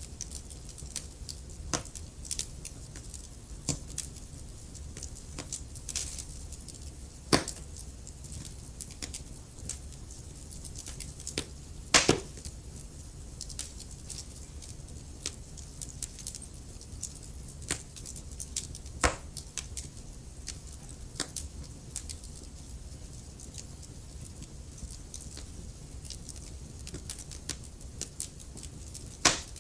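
Wood logs burning in a fireplace, crackling with irregular sharp pops over a steady low rumble; the loudest pops come about a third of the way in, near the middle and near the end.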